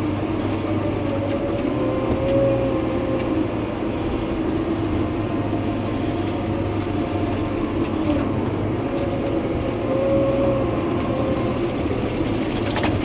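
Heavy earthmoving machine's diesel engine running under work, a steady drone whose pitch rises and falls slightly as the throttle changes.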